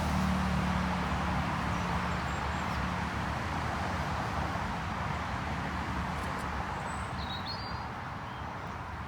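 Steady outdoor rushing noise with a low engine hum that fades over the first three seconds, and a bird's brief chirps about three-quarters of the way through.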